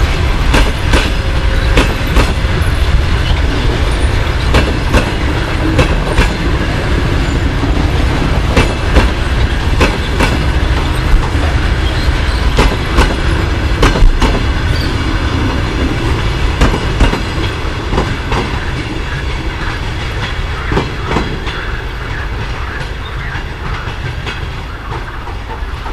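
A departing passenger train's coaches rolling past on the rails, with a steady rumble and repeated clicks as the wheels cross rail joints, the sound fading over the last several seconds as the train moves away.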